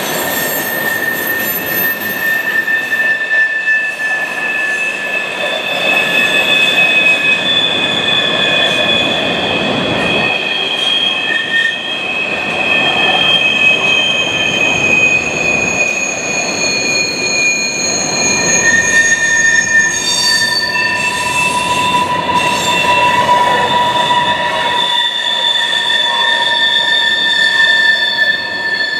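Freight train cars rolling past with their steel wheels squealing on the rail: several long, steady high-pitched squeals that fade in and out over a continuous rumble of the train.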